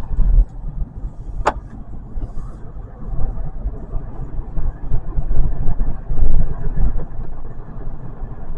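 Steady low rumble of a 2025 Kia K4 heard from inside the cabin while driving, with one sharp click about a second and a half in.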